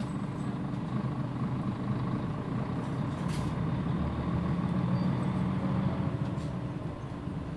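Mitsubishi Fuso Aero Star (PJ-MP35JM) city bus running, its diesel engine a steady low drone that swells louder about four to six seconds in. A short hiss of air sounds about three seconds in.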